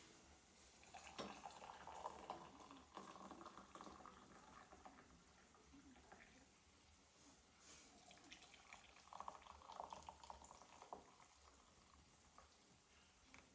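Faint splashing and trickling water in two stretches, with a few light clicks.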